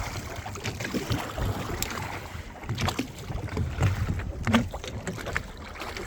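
Wind buffeting the microphone with a low uneven rumble, and scattered clicks and knocks of handling.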